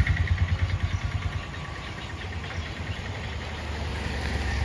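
A motor vehicle engine running at low revs: pulsing and louder for about the first second and a half, then settling to a quieter steady low hum.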